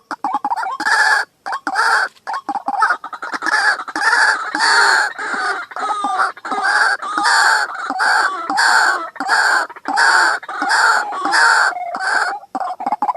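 White-breasted waterhen calling: a harsh call repeated steadily about twice a second, loud and even throughout.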